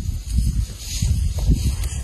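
Wind buffeting the microphone: an uneven low rumble throughout, with a brief faint hiss about a second in.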